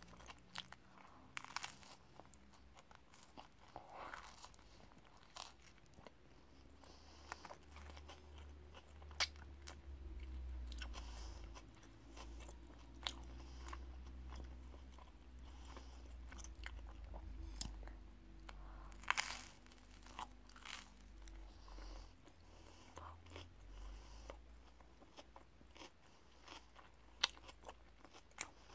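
A person biting and chewing an open sandwich topped with lettuce and cucumber, close to the microphone: crunching bites and sharp mouth clicks at irregular intervals, loudest about a third of the way in, again about two thirds in, and near the end.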